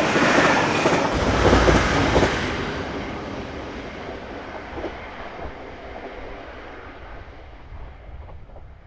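Transport for Wales Class 197 diesel multiple unit passing close by, its wheels clattering on the rails, then fading steadily as it runs away into the distance.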